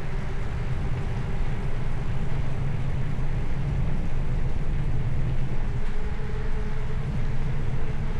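Steady low rumble of wind buffeting the microphone on a moving bicycle, with faint hum from the ride.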